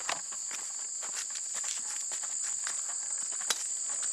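Steady high-pitched insect chorus shrilling, with irregular crunching footsteps on a forest trail.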